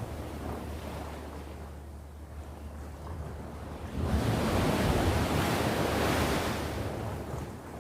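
Sea waves on the shore: a low, quieter wash, then about four seconds in a wave breaks and its surf hisses loudly for about three seconds before fading.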